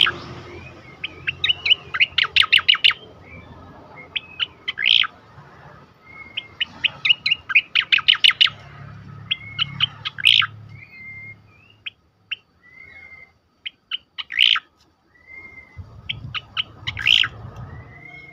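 Sooty-headed bulbul (cucak koreng) singing its rapid-fire 'tembakan' song. Quick runs of sharp, stacked notes, about ten a second, alternate with short slurred whistles, with a brief lull about twelve seconds in.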